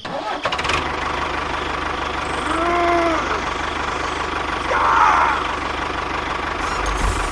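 A small motor running steadily with a fast, even low pulse. There is a short rising-and-falling tone about three seconds in and a brief higher burst about five seconds in.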